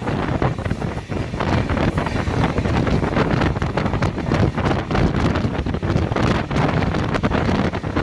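A train running close by, with a steady low rumble and rushing noise broken by irregular knocks, and heavy wind buffeting the microphone.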